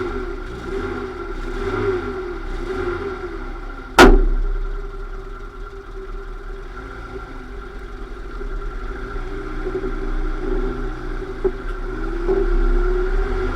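Lada Niva running with a steady mechanical whine, the abnormal drivetrain noise under investigation. About four seconds in comes one loud, sharp knock.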